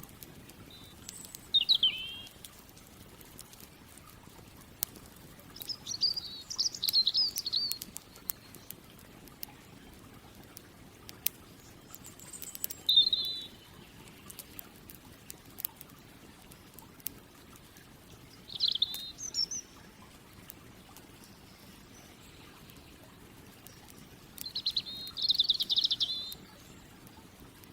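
A songbird singing short, chirping phrases about five times, several seconds apart, with sparse sharp crackles of a campfire in between.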